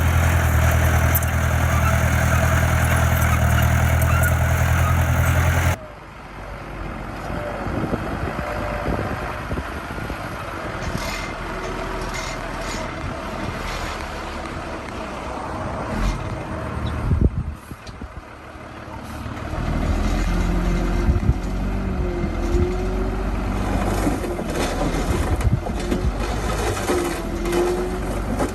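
Diesel engine of heavy earthmoving machinery running loud and steady, then cutting off abruptly about six seconds in to quieter machine noise with a few knocks. A low engine rumble builds again near the end.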